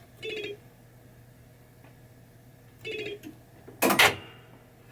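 1990 Williams Funhouse pinball machine giving short buzzy electronic tones, one near the start and another about three seconds in, then a single loud sharp clack with a brief ringing tail about four seconds in.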